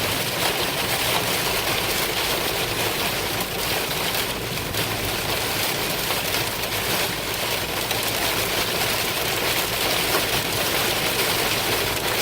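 Heavy rain hitting a moving car's body and windshield, heard from inside, over steady road noise. A dense, even hiss with no breaks.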